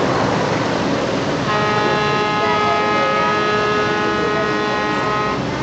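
A horn sounds one long steady blast of about four seconds, starting about a second and a half in, over a steady background rush.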